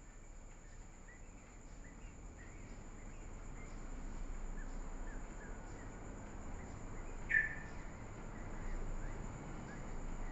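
Short, high bird chirps scattered throughout over a low steady background hum, with one louder chirp about seven seconds in.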